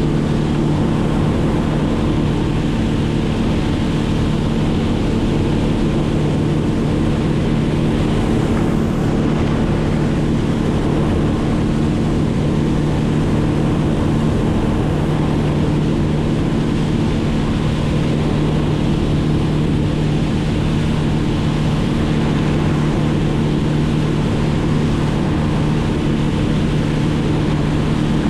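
An engine running at a steady speed, a constant pitched drone that does not change.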